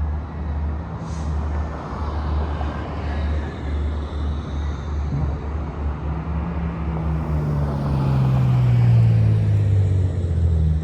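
BMW E46 M3's S54 straight-six engine running through a Supersprint race exhaust with a non-resonated X-pipe: a steady low drone that swells about two-thirds of the way in, then slides down in pitch as the revs fall.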